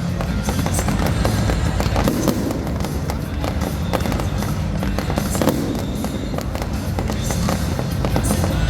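Fireworks display: a dense run of bangs and crackles with a low rumble, over music played along with the show.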